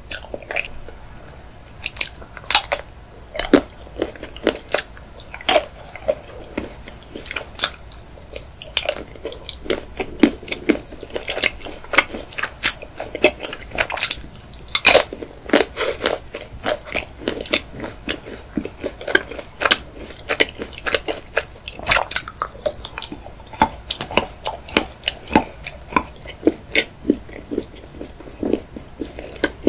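Close-miked eating: a person biting into and chewing thin chocolate decorations, with crunches and many sharp mouth clicks in quick succession.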